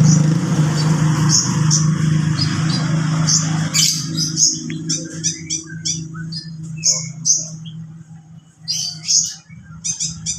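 A kolibri ninja sunbird giving rapid, short, high chirps in quick runs, busiest in the second half. A steady low drone sits under the chirps and fades after about four seconds.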